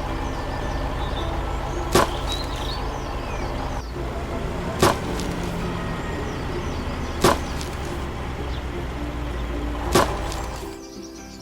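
Tractor engine running steadily, cut by four sharp clicks about two and a half seconds apart, with faint bird chirps. The engine sound drops away near the end.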